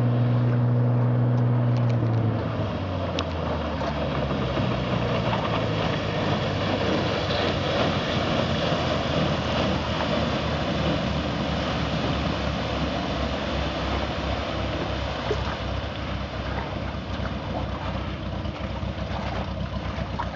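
Cessna 182 floatplane's six-cylinder engine and propeller droning steadily, dropping to a lower note about two seconds in as power comes back, then running on at low power under a broad rushing noise.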